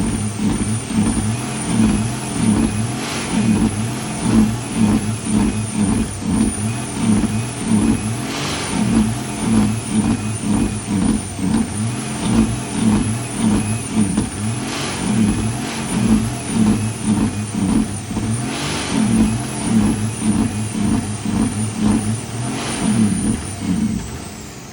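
Heavy truck's diesel engine running steadily, with short air hisses every few seconds. The sound drops away near the end.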